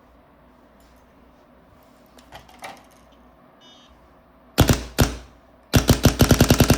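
Rebuilt Planet Eclipse LV2 paintball marker being test-fired on air: a few light clicks and a short beep, then two single shots about half a second apart, then a rapid string of about a dozen shots.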